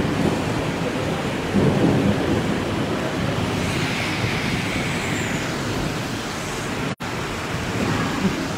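Heavy thunderstorm rain pouring steadily, with a deep low rumble under it that swells briefly about a second and a half in. The sound cuts out for an instant about seven seconds in.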